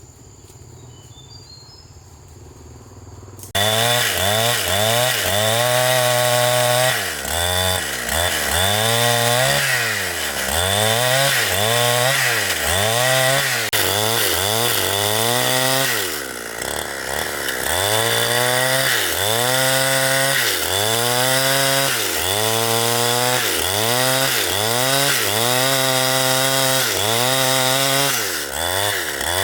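A two-stroke chainsaw cuts in abruptly at high revs after a few quiet seconds and runs hard through wood. Its engine pitch sags and recovers about once a second as the chain bogs down under load in the cut.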